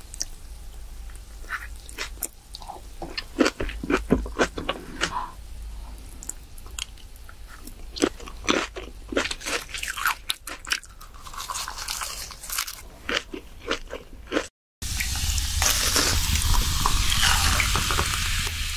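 Close-miked eating sounds: crunchy bites and wet chewing of grilled pork belly and leafy ssam wraps, in irregular crackly strokes. After a brief dropout near the end, a louder, dense, steady hiss takes over.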